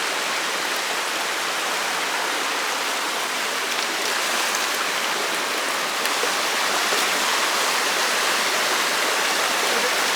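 A fast-flowing rocky stream rushing steadily over stones, a continuous even rush of water.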